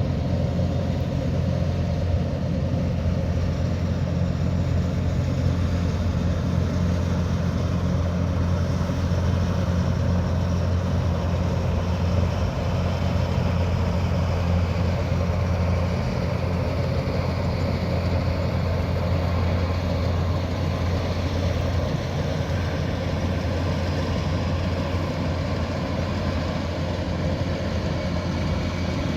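Kubota DC108X combine harvester's diesel engine running steadily, a constant low drone with no change in speed.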